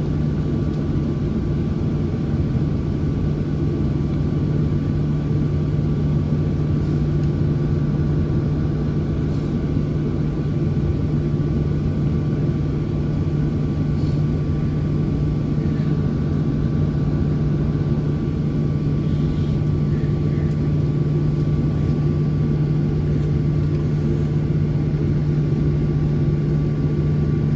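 Steady cabin drone of a Boeing 737 with its jet engines at idle: a constant low hum with a thin, steady whine above it, unchanging throughout.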